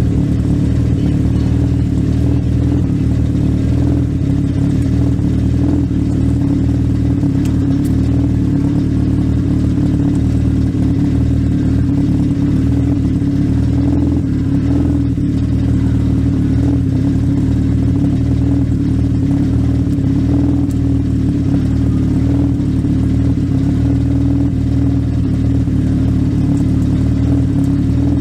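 Legend race car's Yamaha 1200 cc four-cylinder motorcycle engine running at a steady, even speed, heard from inside the car.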